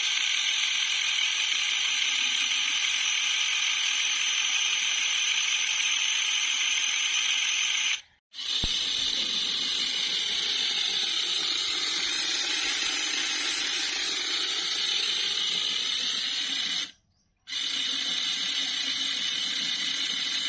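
Small electric motor and plastic gearbox of an RC toy tractor running, a steady high-pitched whine with a mechanical rasp. It cuts off abruptly twice, at about 8 and 17 seconds in.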